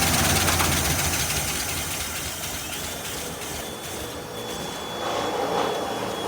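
1979 Chevy Nova engine running just after its first start in seven years, slowly losing strength. It is being starved of fuel because its mechanical fuel pump isn't working. A faint high steady whistle sounds through the second half.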